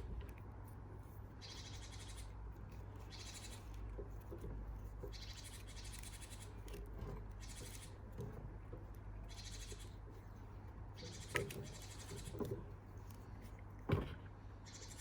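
Black adhesive tape being pulled off the roll again and again in short screechy strips, each lasting under a second. A couple of knocks come near the end.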